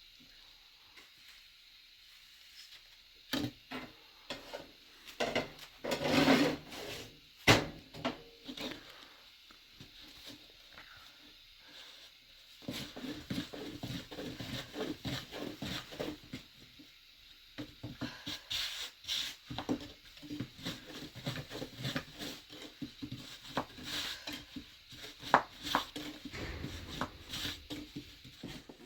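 Household handling noises: rubbing, light knocks and clatter of wood and kitchenware. They are scattered at first and become busier and more continuous about halfway through.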